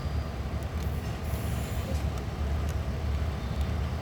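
Diesel locomotive engines idling in a rail yard with a steady low rumble, a few faint clicks and a short high hiss about a second in.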